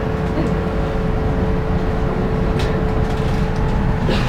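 Canal tour boat's engine running steadily: a low rumble with a steady hum above it that cuts off just before the end.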